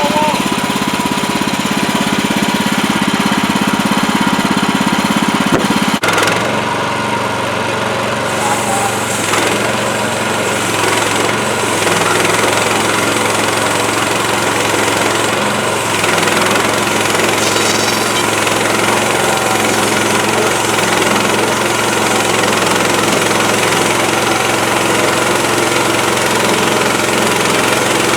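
Engine of an HM130max portable bandsaw sawmill running steadily; about six seconds in its note drops to a lower, steady pitch and stays there.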